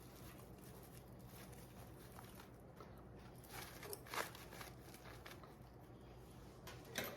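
Quiet room tone with a few soft rustles and crackles from hands handling ribbon and craft pieces: a cluster about three and a half to four seconds in and a sharper one near the end.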